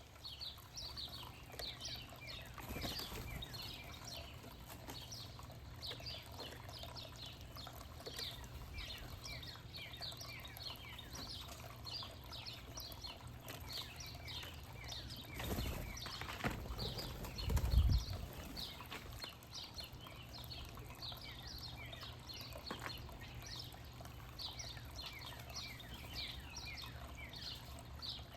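Many small backyard birds chirping continuously, a dense chorus of short falling chirps. Two low rumbles a little past the middle, the second the loudest sound.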